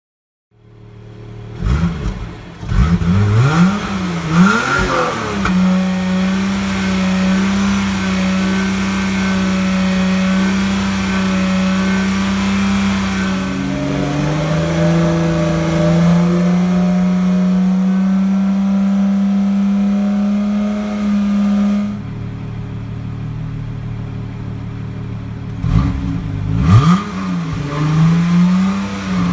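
Car engine heard through its exhaust: it starts and is blipped with a few quick revs, then settles to a steady idle that steps up in pitch about halfway. Near three-quarters in the sound drops abruptly, and near the end there are more quick revs.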